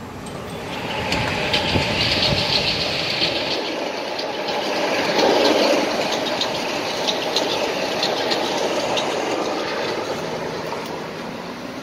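A Metro-North electric commuter train passing close by, its wheels clacking over the rail joints. It grows loud about a second in, is loudest around the middle, and fades near the end.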